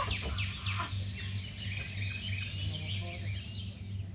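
Birds chirping: a busy run of short, quick downward chirps that thins out near the end, over a steady low hum.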